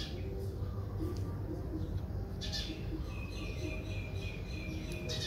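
Bird chirping: short high calls about two and a half seconds in, then a run of rapid chirps through the second half, over a steady low background rumble.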